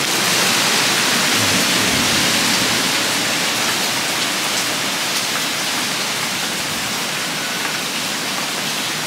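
Heavy hurricane rain falling, a dense, steady hiss.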